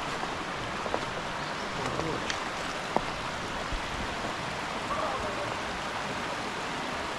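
Chagrin River flowing over rocks: a steady rush of water, with a few faint clicks about one, two and three seconds in.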